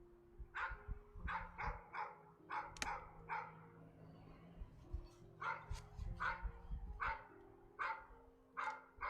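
A dog barking repeatedly, in quick runs of short barks with a pause of about a second near the middle, over a faint low steady hum.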